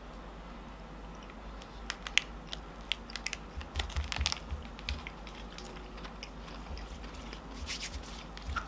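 Faint, scattered mouth clicks and smacks from chewing a mouthful of dry instant coffee powder, thickest from about two seconds in to five seconds and again near the end.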